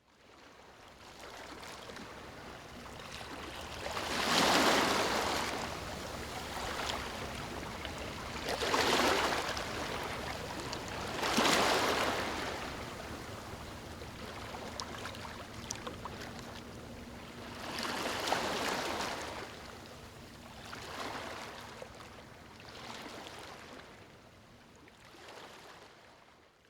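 Ocean waves surging and washing back, about six swells each rising and falling over a second or two, growing fainter and fading out near the end.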